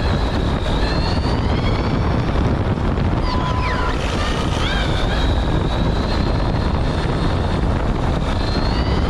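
Onboard sound of an RC car driving at speed: a steady rumble of wind and tyre noise with the high whine of its Apex 4076 brushless motor rising and falling as the throttle changes.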